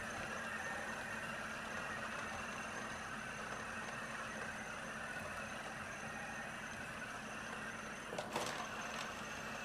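Roomba robot vacuum running with a steady whirring hum of its motor and brushes, with a brief knock about eight seconds in.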